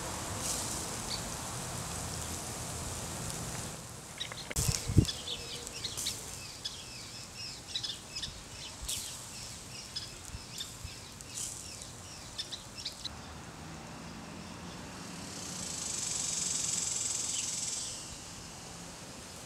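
Outdoor ambience with small birds chirping, many short high chirps in quick succession through the middle. A steady hiss comes before them, and a high hiss swells and fades near the end.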